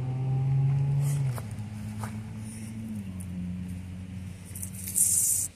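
A motor vehicle's engine running steadily nearby, its low hum stepping down in pitch about a second in and again about three seconds in. Near the end comes a short, loud hiss.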